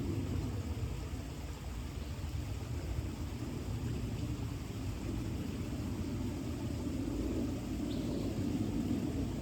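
Steady low rumble of outdoor background noise that swells slightly in the second half, with one short high chirp about eight seconds in.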